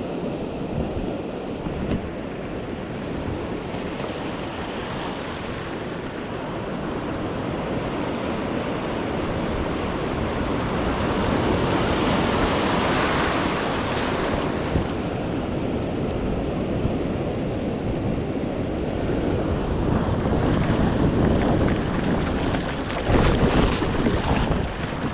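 Sea waves washing in, with wind buffeting the microphone in low rumbling gusts. One wave swells up and breaks a little past halfway.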